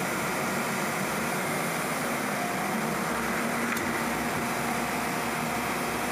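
Steady mechanical whirring, like a fan or ventilation unit, with a faint steady tone and one small click partway through.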